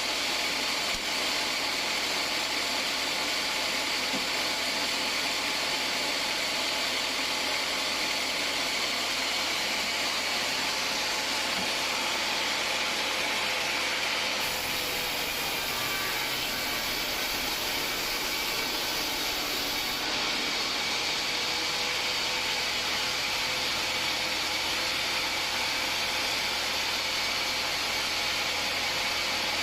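Homemade band sawmill running steadily as its blade saws through an acacia log, a continuous machine noise.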